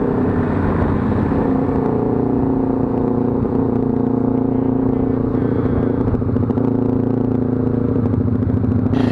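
Motorcycle engine running at a steady speed, its pitch holding even with no revving.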